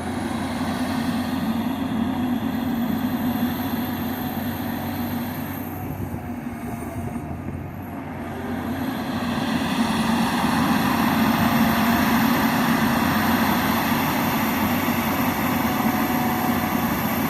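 John Deere 350G LC hydraulic excavator's diesel engine running steadily under working load. It gets louder at about the middle and stays there as the machine works harder.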